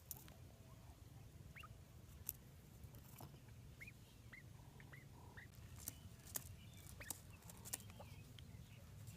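Faint short bird chirps, about half a dozen quick hooked peeps in the middle, with several sharp clicks scattered through and a low hum underneath.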